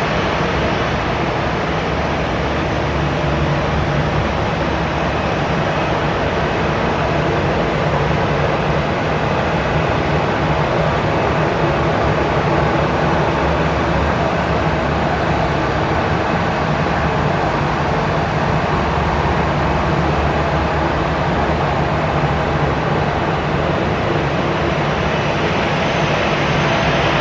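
Jet airliner engines running, a steady, continuous rushing noise with a low hum underneath that holds level throughout.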